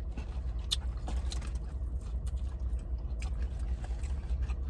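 Eating sounds: scattered short clicks and crackles of chewing and of handling food and its wrapping, over a steady low rumble.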